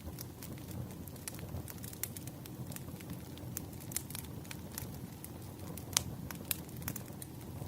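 Wood fire crackling: a steady low rumble of burning logs with frequent small pops, and one sharper pop about six seconds in.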